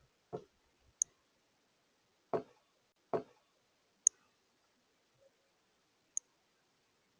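Birds at a feeder: three dull taps or knocks on the feeder, and three sharp, very high, chip-like ticks a second or two apart.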